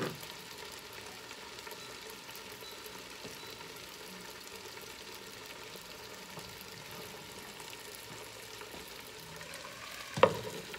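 Julienned potatoes frying in oil in a covered pan, a steady sizzle under the glass lid. About ten seconds in, a sharp clack as the glass lid is lifted.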